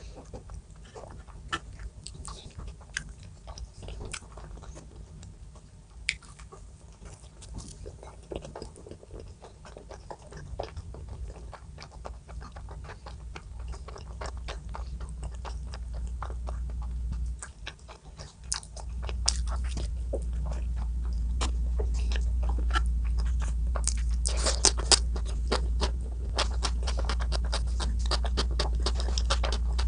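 A person eating close to the microphone: steady chewing and biting with many small crunchy clicks, busiest a little past the middle. A low steady hum runs underneath and grows louder from about two-thirds of the way in.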